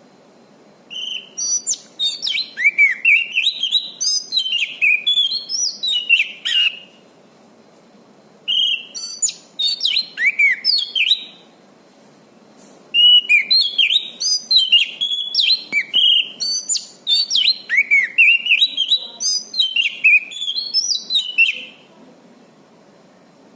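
Orange-banded thrush (anis cendana) singing vigorously in three runs of rapid, varied whistles and downslurred chirps, with short pauses between them.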